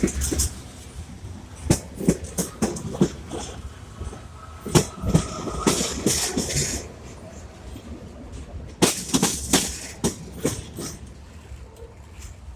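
Train rolling along the track with a steady low rumble, its wheels clicking and knocking irregularly over the rail joints.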